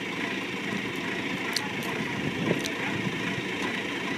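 Tractor engine running steadily, with a couple of short sharp clicks over it.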